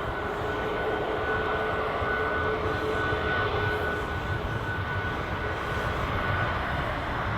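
Jet engine noise from a Boeing 777-300ER's GE90 engines at climb power just after takeoff: a steady, even noise with a faint constant whine.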